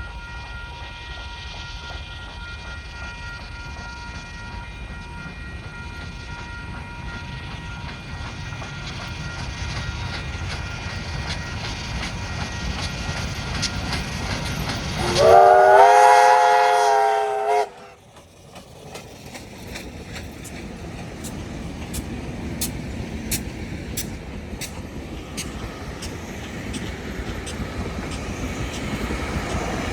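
A train runs through a level crossing with a steady rumble. About fifteen seconds in it sounds a loud warning chord of several notes for about two and a half seconds, which cuts off sharply. Then its wheels clatter over the rail joints in an even rhythm as it passes.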